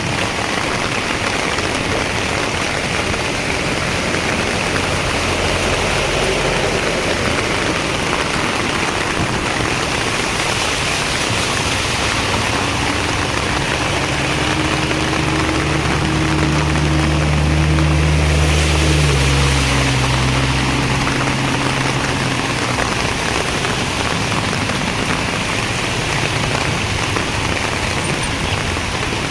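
Heavy rain falling steadily. About halfway through, a motor vehicle's engine comes close for several seconds, growing louder, then drops a step in pitch and fades.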